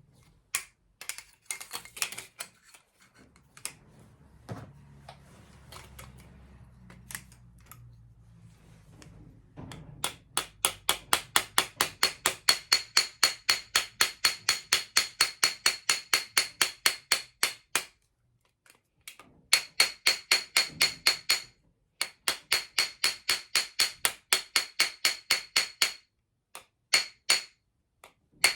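Rapid, even tapping on a flute's metal body, about five light ringing strikes a second in long runs, as a dent is worked out of the tube. Before the tapping there are a few scattered clicks of handling.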